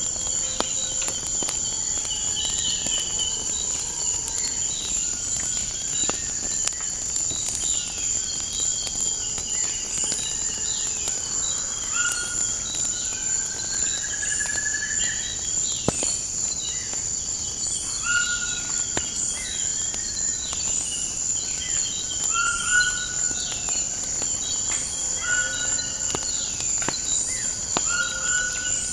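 Continuous high trilling of crickets, with several birds calling over it in sliding and rising notes, one repeating a short high chirp about once a second. A few sharp pops from a crackling wood fire are scattered through.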